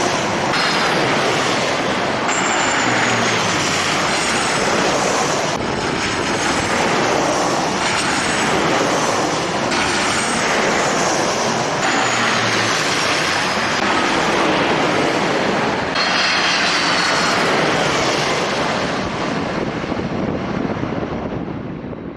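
Jet airliner engines running: a loud, steady rushing noise with high whining tones that slide down in pitch, the sound falling away near the end.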